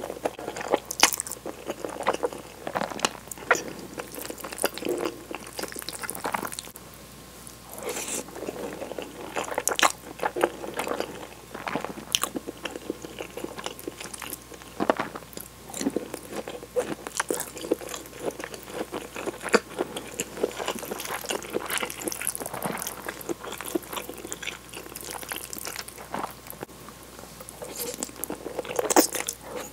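Close-miked eating of tomato cream spaghetti: strands drawn into the mouth and chewed, with a bite of imitation crab stick, giving a steady run of irregular wet mouth clicks and smacks.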